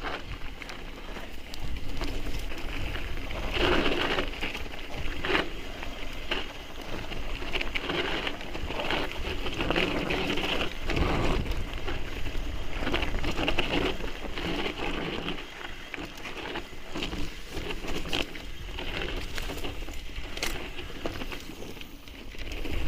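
Mountain bike riding over a rough trail: tyres crunching on loose stones, with irregular clicks and rattles from the bike, and a low rumble on the microphone.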